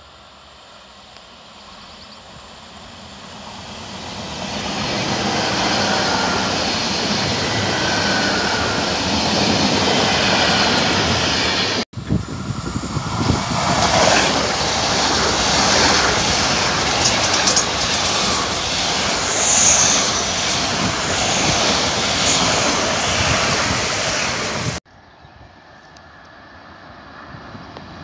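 ICE high-speed train approaching and running past at speed: a rushing noise of wheels on rails that swells over the first few seconds and stays loud. The sound breaks off abruptly twice, and after the second break a quieter train noise rises as another train comes in.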